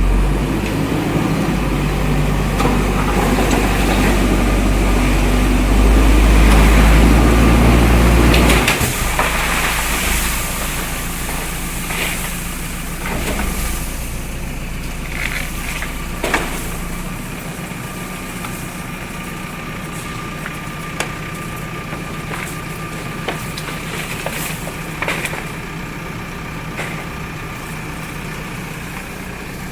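JCB backhoe loader's diesel engine running hard for the first several seconds, then dropping back to a lower steady run about nine seconds in. Scattered knocks and clatter follow in the middle stretch, and a thin steady whine carries through the later part.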